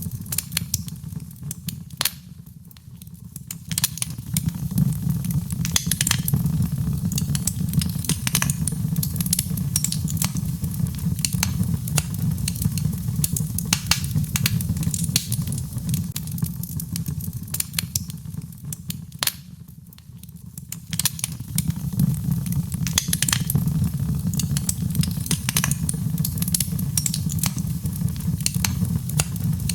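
Birchwood fire burning in a fireplace: a steady low rumble of flames with frequent sharp crackles and pops from the burning logs. The fire goes briefly softer twice, a couple of seconds in and again about twenty seconds in.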